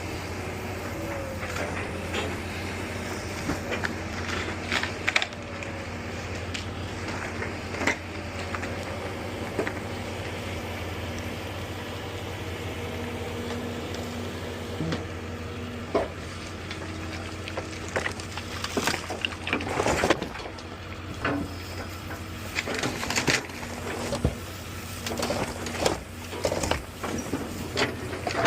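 A heavy machine's engine running steadily, with irregular knocks, crunches and crashes of demolition debris being broken and moved. The impacts come thicker and louder in the last third.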